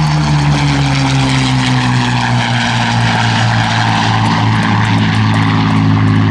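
Pair of Spitfires' Rolls-Royce Merlin V12 engines running in a low flypast. The engine note falls slowly in pitch over the first few seconds as the aircraft pass, then holds steady.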